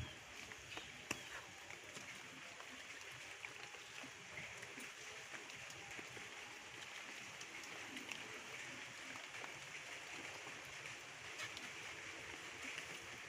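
Faint, steady hiss of water or outdoor noise, with a sharp click at the very start and scattered light ticks.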